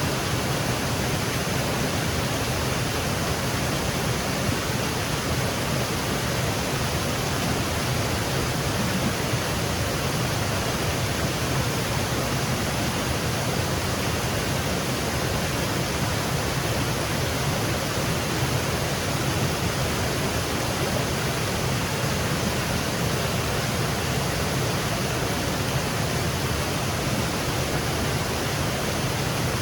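Small woodland waterfall splashing and cascading, a steady even rush of water.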